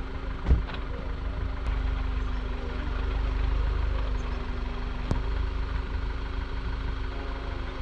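Volkswagen Golf 6 GTI's turbocharged 2.0-litre four-cylinder engine with its stock exhaust, idling and creeping at low speed while the car is repositioned, swelling slightly in the middle. A single sharp thump about half a second in.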